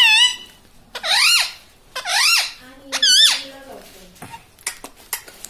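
Pet ring-necked parakeet giving four loud, high-pitched, warbling calls about a second apart, with a few faint clicks near the end.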